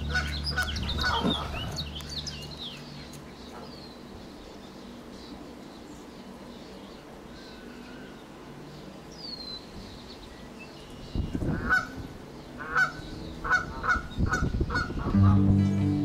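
Birds calling: scattered high chirps in the first seconds and a single rising whistle in the middle, then a run of about seven loud calls in quick succession near the end. Background music fades out at the start and guitar music comes in at the very end.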